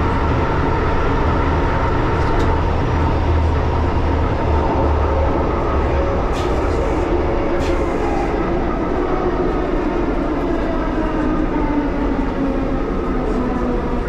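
1938 Tube Stock underground train running, heard from aboard: a steady low rumble with a faint motor whine that falls slightly in pitch in the second half, and a few sharp clicks along the way.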